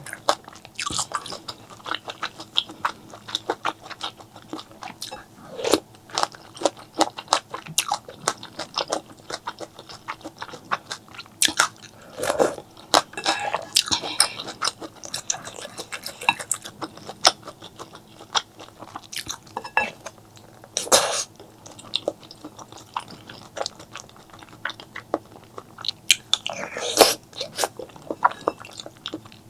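Close-up mouth eating sounds: chewing and biting with dense, irregular wet clicks and crackles, broken by a few louder, longer bursts about twelve, twenty-one and twenty-seven seconds in.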